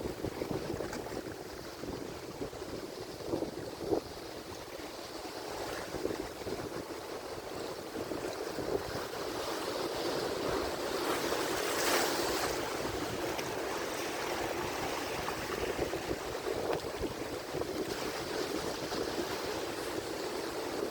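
Atlantic Ocean surf: waves washing and breaking continuously, building to one louder crashing wave about twelve seconds in.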